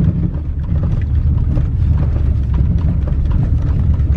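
A lifted 4x4 pickup truck driving: a steady low rumble of engine and road noise with many small crackles.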